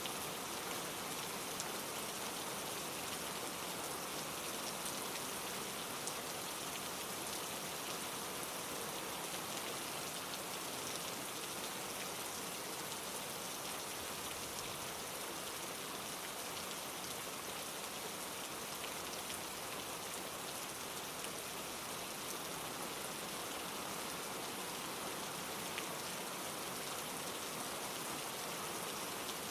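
Steady rain pattering on leaves, with many small drop ticks scattered through an even hiss.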